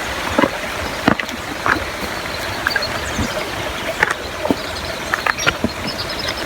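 A creek running steadily, with irregular footsteps crunching and clicking on the forest trail.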